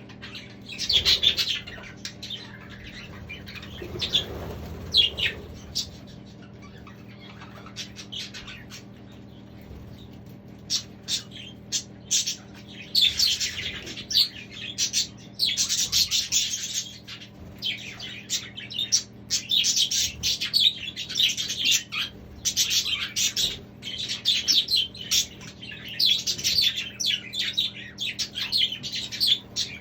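Budgerigars chirping and chattering, a few calls at first, then a busy, almost unbroken flock chatter from about halfway through.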